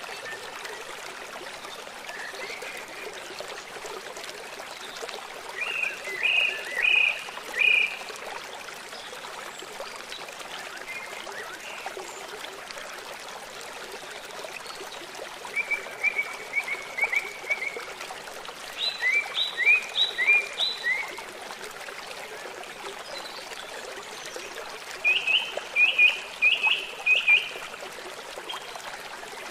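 A songbird singing short phrases of quick repeated notes, four phrases spaced several seconds apart, over the steady rush of flowing water.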